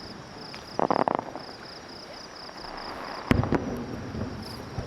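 Fireworks going off: a quick cluster of crackling pops about a second in, then a sharp bang with a low rumble a little past three seconds, followed by a couple of smaller pops.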